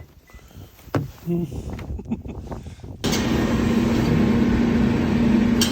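A few scattered knocks and crunches, then, about three seconds in, a car's steady running noise with a constant low hum starts abruptly.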